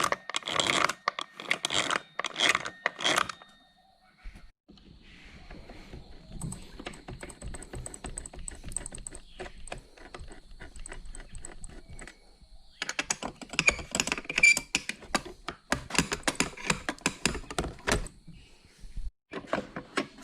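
Small metal parts and tools clicking and clattering as an RC monster truck chassis is handled and taken apart, with a denser, louder run of knocks and rattles in the second half.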